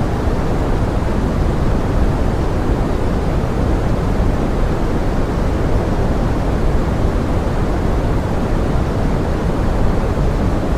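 Steady pink noise: an even, unbroken rushing hiss, fuller in the low end than in the treble, with no changes or separate sounds.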